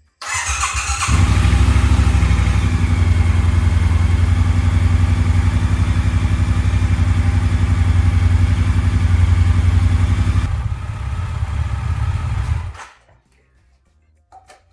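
2019 Triumph Speedmaster 1200's parallel-twin engine started on the starter, catching about a second in and idling steadily. It runs a little quieter for its last couple of seconds, then is shut off near the end.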